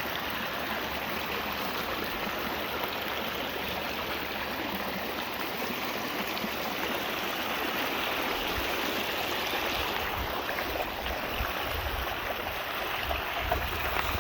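Storm runoff water rushing steadily along an eroding dirt road, with a few low thumps in the last few seconds.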